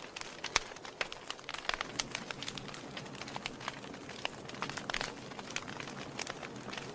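Wood fire burning in a fireplace: a soft hiss with frequent irregular crackles and sharp pops, a few of them louder than the rest.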